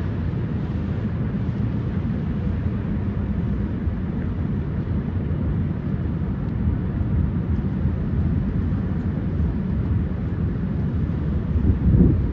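Steady low rumble of outdoor street ambience in a snowstorm, dominated by wind buffeting the microphone, with a brief louder gust near the end.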